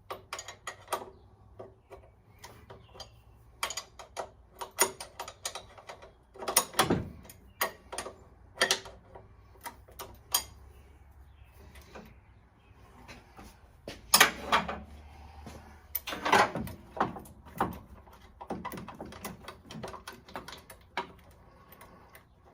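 Hand tools clicking and knocking on metal while a stuck part on a Ford 302 engine is worked loose. The taps come irregularly, with louder knocks about fourteen and sixteen seconds in.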